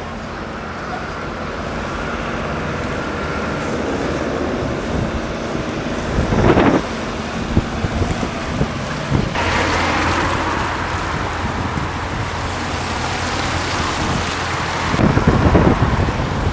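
Storm-force gale wind gusting hard across the microphone, with heavy buffeting rumbles, loudest about a third of the way in and near the end. A broad rushing hiss swells suddenly just past halfway, then fades.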